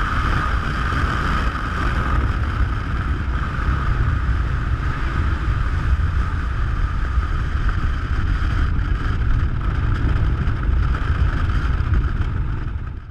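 Steady roar of wind on the microphone and heavy sea aboard a large ship, with a deep rumble underneath and a steady high whistle running through it.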